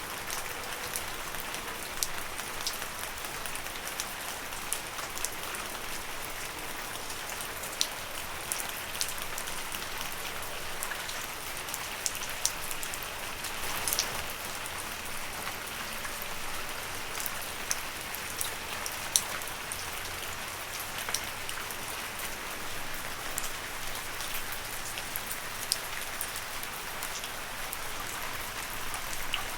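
Steady rain falling on leaves, a constant patter with many separate sharp drop hits scattered through it.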